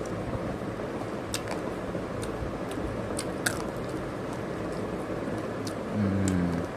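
A person chewing roasted chicken close to the microphone: scattered wet clicks and smacks over a steady background hiss, and a short hummed "mm" near the end.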